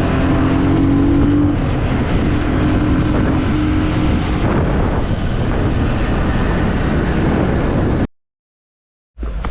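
Steady engine drone and road noise of a moving vehicle. It cuts off abruptly about eight seconds in, leaving about a second of silence.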